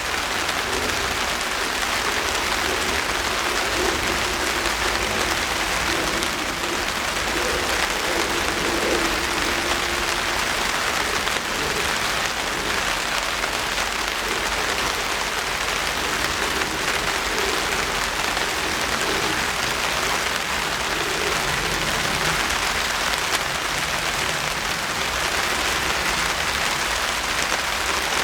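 Steady rain falling in a dense, even patter of drops on surfaces.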